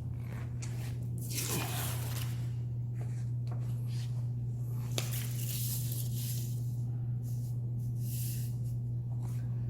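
Paper rustling as the drawings are handled, in a few soft swishes, with a sharp click about five seconds in, over a steady low hum.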